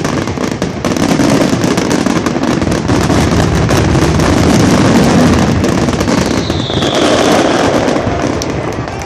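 Aerial fireworks: a dense, rapid run of bangs and crackling from many shells bursting close together, easing off slightly toward the end.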